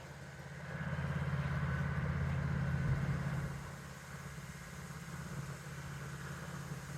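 A motor engine running at a steady pitch. It grows louder about a second in and fades after about three and a half seconds, like a vehicle going past.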